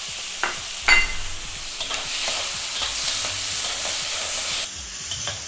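Chopped onions and tomatoes sizzling in hot oil in a metal kadhai while a metal ladle stirs them, with small scrapes and clicks against the pan. A sharper ringing clink of the ladle on the pan about a second in is the loudest sound.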